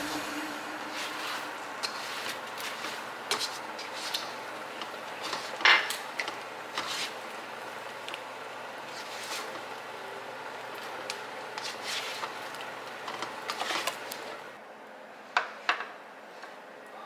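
Spatula scraping and clacking against a wok as glazed fried chicken wings are tossed, over a steady hiss. Near the end, two sharper knocks as the wok is tipped and the wings slide out onto a plate.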